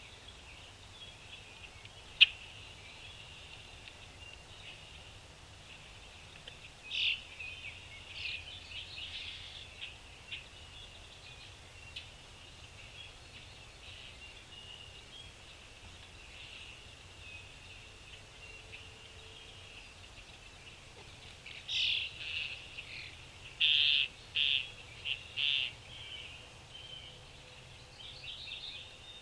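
Small birds chirping in short high bursts, with two busier spells, one about a quarter of the way in and a cluster of loud chirps toward the end. A single sharp click about two seconds in is the loudest sound.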